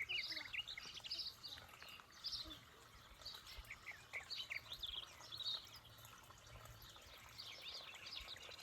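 Birds chirping: a busy stream of short, quick chirps.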